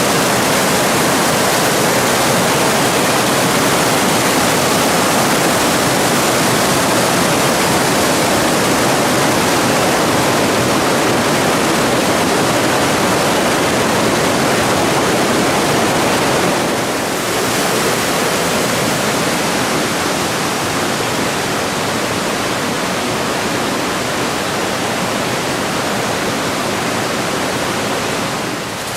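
Steady rushing of a mountain stream's water. It eases slightly about two-thirds of the way through.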